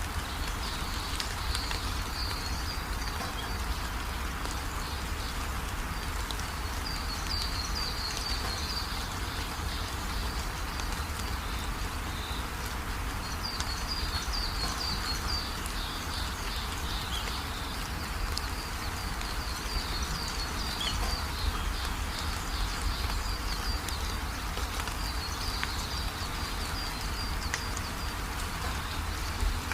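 Steady rain falling, with short runs of high-pitched chirping that come and go several times.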